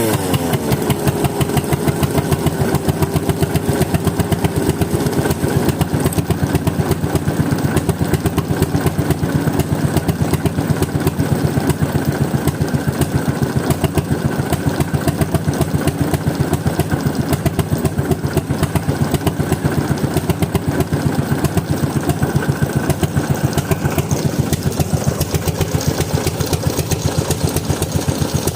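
Bernard Moteurs W14 15 HP engine slowing down from speed in the first moment, then idling steadily with evenly spaced firing beats.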